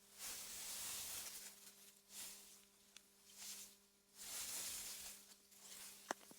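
Faint wind gusting through meadow grass: a hiss that swells and fades about four times, over a steady low hum, with one sharp click near the end.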